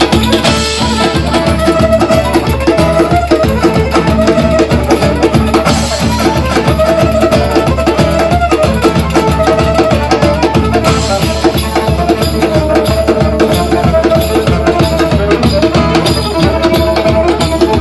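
Live folk-style band music: a lively tune with guitar over a steady drum beat.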